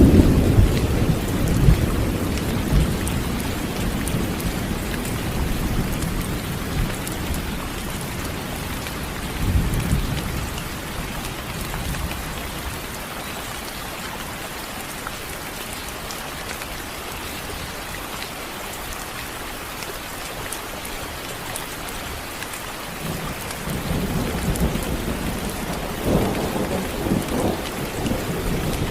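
Thunderstorm: steady heavy rain with rolling thunder. A long rumble is fading away at the start, another swells briefly about a third of the way in, and the thunder grows again near the end, over an even hiss of rain.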